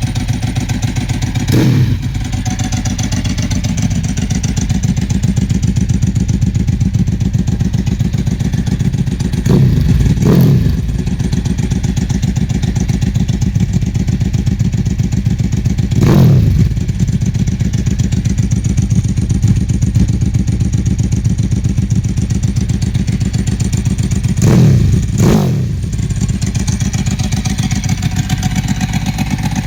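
Ducati 999S L-twin engine running through a Mivv aftermarket exhaust. It idles with an even, pulsing beat and is blipped on the throttle six times: once, then a quick pair, once more, then another quick pair. Each rev rises and drops straight back to idle.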